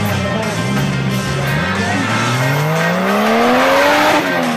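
Off-road race buggy engine revving hard, its pitch rising steadily for a couple of seconds to a peak near the end, mixed with background music.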